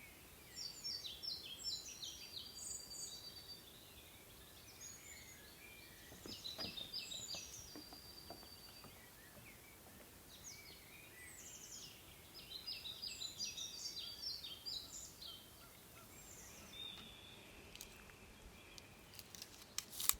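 A songbird singing three phrases of quick, high, trilling notes, each a few seconds long and separated by pauses of a few seconds. A few sharp clicks come just before the end.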